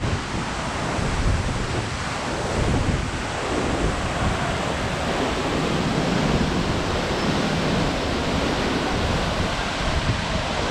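Waterfall pouring steadily, a dense continuous rush of falling water, with wind buffeting the microphone in the low end.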